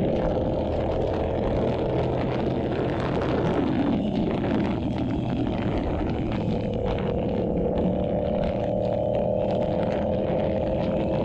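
Yamaha YZF-R7's 689 cc parallel-twin engine running through an SC-Project aftermarket exhaust while being ridden. The engine note steadies again from about seven seconds in, after its pitch wavers and dips around four seconds in.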